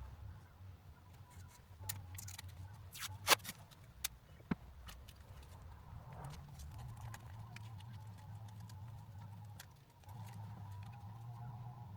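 A few sharp clicks and taps over a steady low hum, the loudest tap about three seconds in. A faint steady whine joins partway through, stops briefly, then returns.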